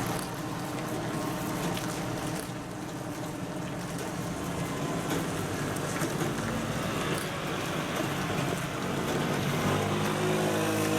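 Heavy truck's diesel engine running steadily, with a louder, deeper engine note coming in near the end.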